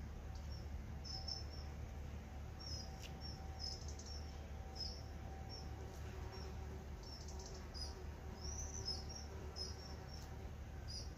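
Small birds chirping: many short, high calls scattered irregularly, over a low steady rumble, with a couple of faint clicks.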